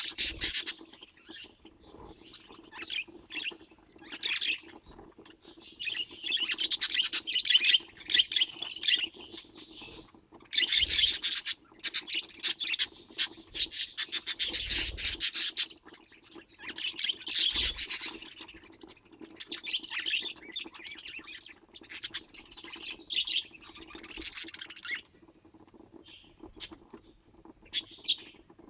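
Budgerigars chattering and chirping in repeated bursts of fast, busy high notes, with a faint steady hum underneath.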